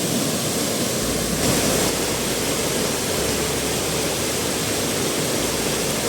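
Small waterfall pouring into a pool, a steady loud rush of falling water.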